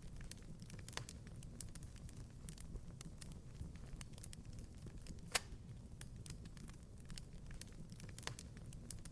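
Wood fire crackling in a fireplace: scattered small pops and snaps over a low steady rumble, with a sharper pop about five seconds in.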